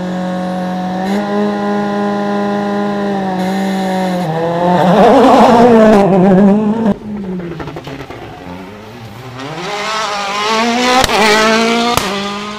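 World Rally Car's turbocharged four-cylinder engine held at steady revs, then revving up and down loudly as the car comes close. The sound cuts off abruptly about seven seconds in. Near the end the revs rise again, with a couple of sharp cracks.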